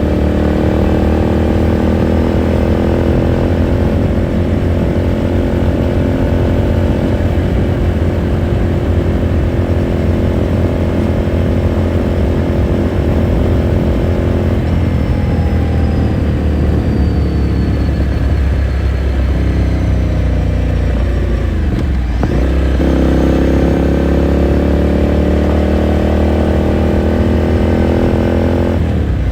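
Ducati Scrambler Sixty2's 399 cc air-cooled L-twin heard onboard while riding. The engine holds a steady pull with its pitch slowly rising for about fifteen seconds, then winds down as the bike slows. After a brief break about 22 seconds in, the pitch climbs again under acceleration and drops once more near the end.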